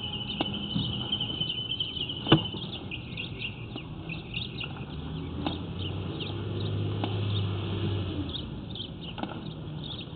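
Small birds chirping over and over, above a low steady hum that swells in the middle. There is one sharp click a little over two seconds in.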